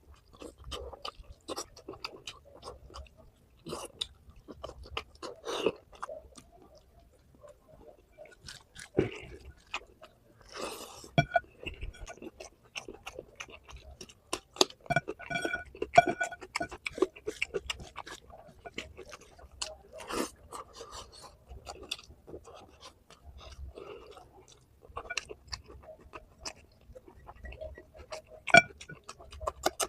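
Close-miked chewing and wet mouth sounds of a person eating curry and rice, with irregular clicks and occasional crunches.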